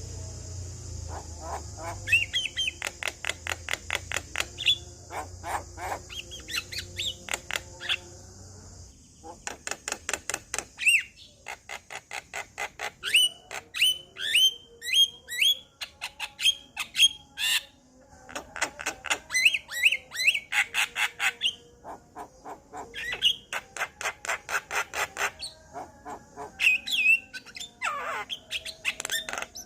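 Male Javan myna singing: fast runs of sharp, clicking repeated notes mixed with short upward-sweeping whistled calls. For about the first nine seconds a steady high hiss and a low hum sit under the song, then cut off abruptly.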